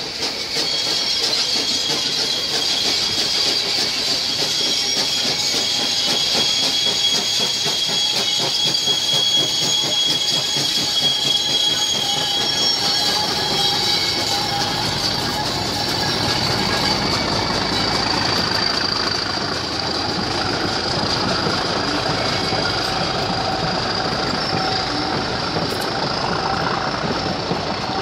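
Heritage train passing on a curve, its wheels squealing with high, steady tones as they run through the bend. From about halfway through, a lower rumble and the clatter of the Class 37 diesel locomotive and coaches grow as they pass close by.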